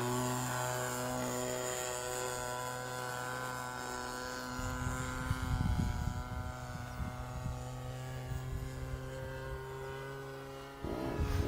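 Combustion engine of a radio-controlled model airplane running steadily in flight, a buzzing propeller drone. Wind buffets the microphone from about halfway, and near the end the engine gets suddenly louder as the plane comes close.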